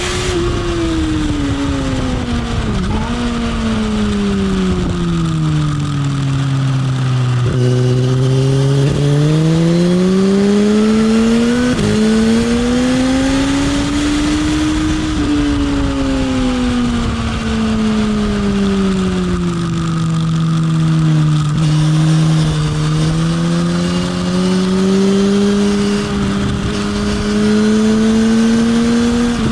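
Sports motorcycle engine heard onboard over wind rush, riding laps on a race track. The engine note falls through the first several seconds with a couple of quick jumps as it is braked and downshifted into a corner, climbs again under acceleration with a gear change partway, then drops for the next corner and climbs once more near the end.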